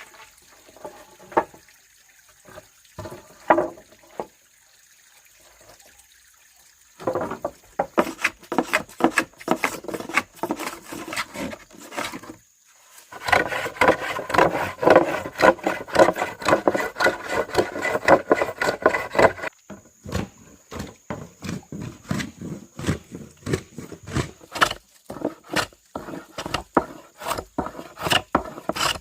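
Hand tools striking and working wood or bamboo: a few scattered knocks, then a run of dense blows, a stretch of fast continuous strokes in the middle, and steady strikes about one and a half per second near the end.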